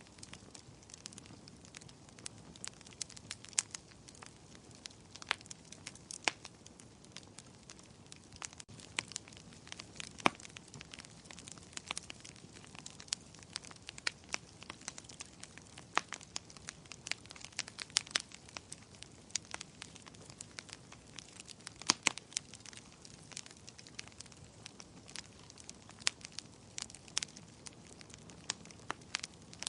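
Wood fire crackling in a fireplace: irregular sharp pops and snaps over a soft steady hiss, with a few louder snaps scattered through.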